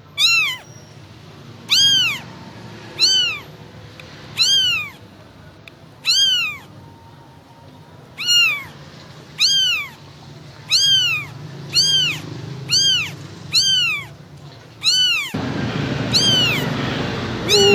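Kitten mewing over and over: short, high-pitched mews that each rise and fall, about one a second, coming a little faster in the second half. The background noise gets suddenly louder about fifteen seconds in.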